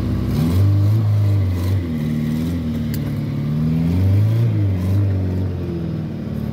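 Fiat 127 Mk2's old four-cylinder engine running and being revved up and down several times. The engine has just been brought back to life after more than 15 years standing, with a new starter motor and new spark plugs.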